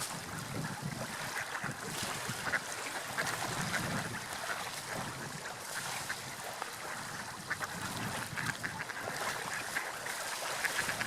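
Seagulls calling again and again over the steady wash of sea waves and wind.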